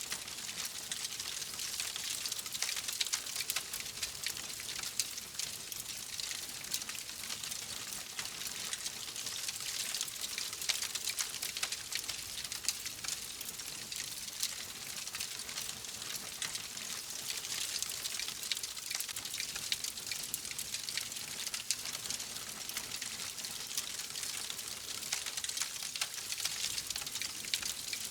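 Wood fire burning in a fireplace: a steady hiss with dense, continuous fine crackling and occasional louder pops.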